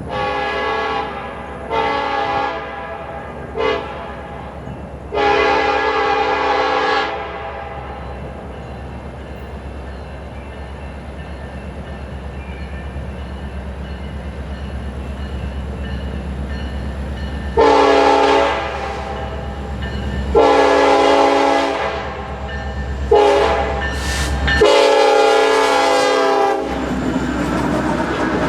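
Diesel freight locomotive's multi-chime air horn sounding the grade-crossing signal twice, long, long, short, long each time, over the low rumble of the approaching train.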